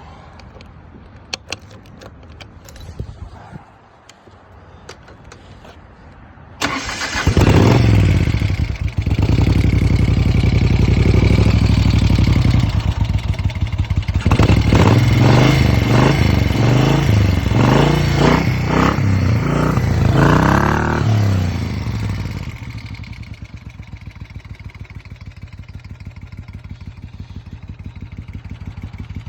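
Cold start of a 1973 Moto Guzzi Eldorado 850's air-cooled V-twin. After a few clicks it fires up suddenly about six seconds in and runs loud. It is then revved up and down several times and settles to a quieter, steady idle for the last several seconds.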